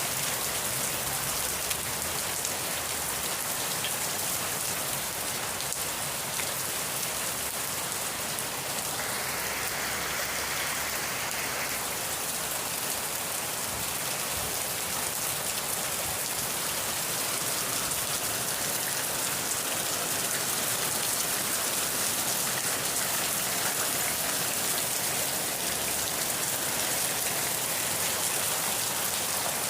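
Steady rain falling, an even hiss of many drops striking a surface, with a brief brighter hiss about nine seconds in.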